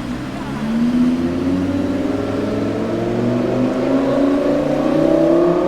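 Audi R8 V10 Plus's 5.2-litre V10 with a Capristo exhaust accelerating: its note climbs slowly and steadily in pitch from about a second in.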